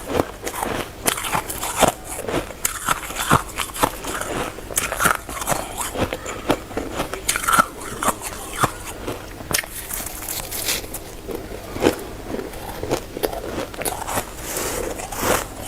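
Hard, frosty shaved ice being bitten and chewed in big bites: a dense, irregular run of crunches and crackles.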